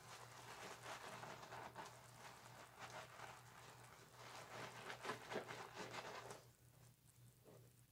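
Loofah being rubbed against a wet bar of soap to work up lather: faint, irregular wet crackling and squishing that dies down about six and a half seconds in, over a low steady hum.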